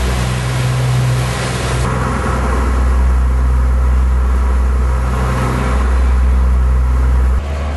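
Boat engine running steadily under way, a loud low hum that drops off abruptly near the end.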